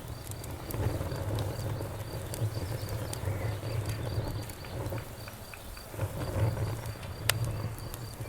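Campfire burning: a low, fluttering rumble of flames with scattered crackles and pops, one sharp pop about seven seconds in. An insect, likely crickets, chirps steadily and rapidly in the background.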